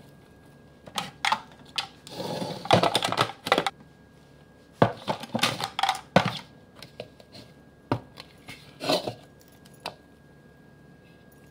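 Hands working sticky seitan dough out of a plastic food processor bowl: irregular knocks, clicks and scrapes against the bowl and blade, loudest and busiest in the middle.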